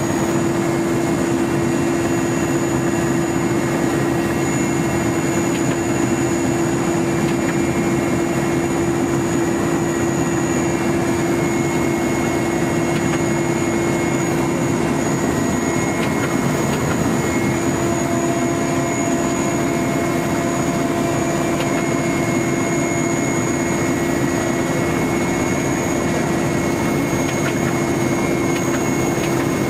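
Helicopter engine and rotor noise heard from inside the cabin: a steady drone with a constant low hum and a fixed high-pitched whine, unchanging throughout.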